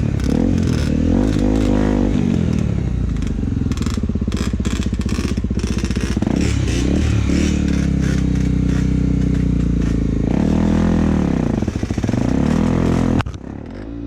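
Trail motorcycle engine revving hard in a low gear while climbing, its pitch rising and falling again and again, with stones clattering and scraping under the tyres. The engine drops off sharply near the end.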